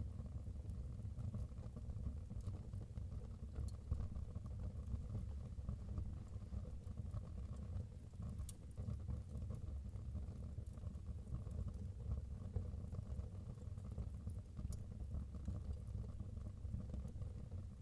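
Wood fire burning in a fireplace: a steady low rumble with occasional sharp crackles and pops from the burning logs.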